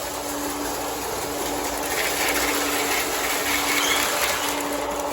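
O gauge model train running on the layout's track, a steady whirring with a hum. It cuts off abruptly near the end as the train loses power and stops.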